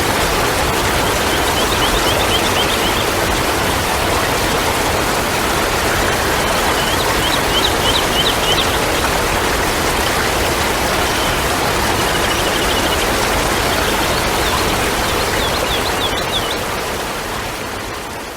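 Steady rushing water, like a stream or small waterfall, with three short runs of quick high chirps over it. The sound fades out near the end.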